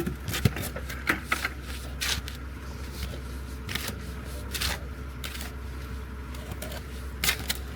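Irregular scrapes and clicks of hand tools working wet mortar, over a steady low hum.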